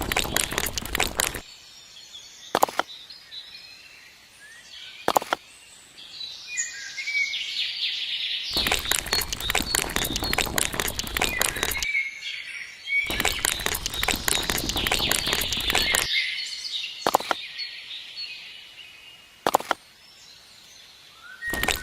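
Small birds chirping outdoors, interrupted by four stretches of rapid, dense clicking clatter lasting a few seconds each, with a few single sharp knocks in between.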